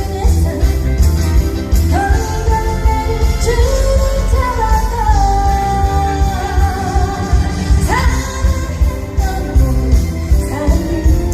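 A woman singing a trot song over a backing track with a heavy, steady bass beat. Her voice comes in about two seconds in and holds a long note through the middle.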